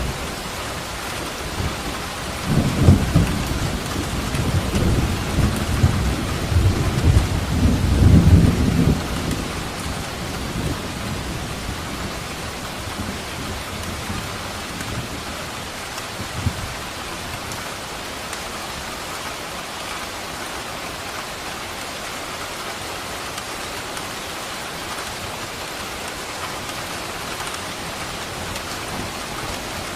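Steady heavy rain falling, with a long roll of thunder that rumbles in about two and a half seconds in and dies away by about ten seconds, and a brief low thunder rumble near the middle.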